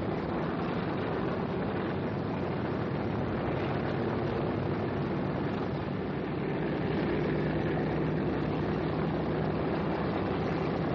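Aircraft engines droning steadily in flight, with a steady hum under an even rush of noise; it grows slightly louder about seven seconds in.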